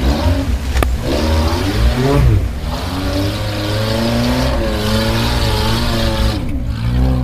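Suzuki Samurai off-road engine revved hard, its pitch rising and falling repeatedly as it works through the mud, with a sharp click just under a second in.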